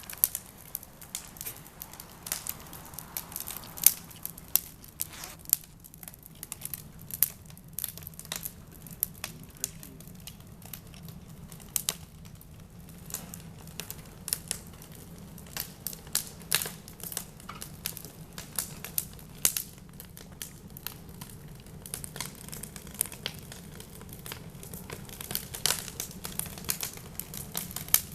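Wood fire burning in a metal barrel, crackling with irregular sharp pops and snaps over a faint low steady hum.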